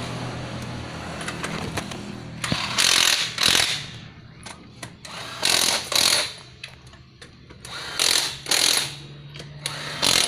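Honda Scoopy scooter engine running at low revs with a harsh crackling rattle that comes and goes in paired bursts about every two and a half seconds. The rattle is the kind caused by the loose rim of the flywheel magnet, the fault the mechanic describes at around 1500–1600 rpm.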